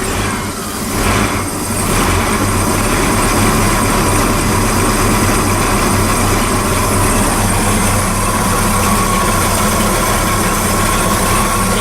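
Mercruiser 233's Ford 302 V8 running at a steady idle just after starting, unsteady for the first couple of seconds and then settling.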